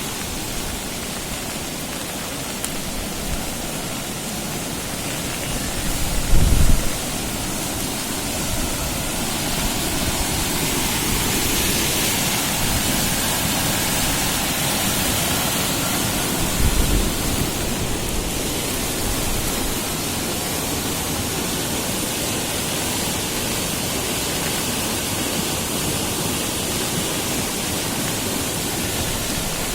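Steady rushing noise of a river in flood, its fast brown water running high. Two brief low thumps come about six and seventeen seconds in.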